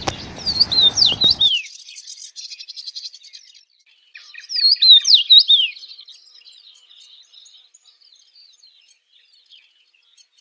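Small birds chirping with quick, high, gliding whistled notes: two loud bursts about four seconds apart, then fainter chirping.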